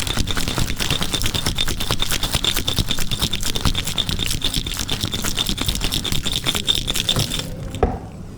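Ice rattling hard in a cocktail shaker as a drink is shaken, a fast steady run of clattering that stops suddenly near the end.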